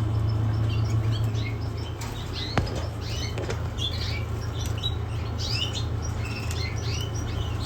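Caged canaries chirping in short, scattered calls, with wings fluttering, over a steady low hum. A single sharp tap sounds about two and a half seconds in.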